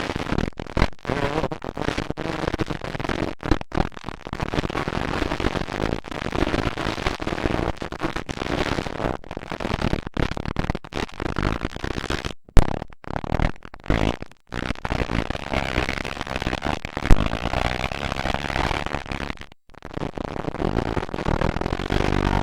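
Dirt bike engines running hard, a rough, uneven racket with sudden loud spikes and several brief dropouts.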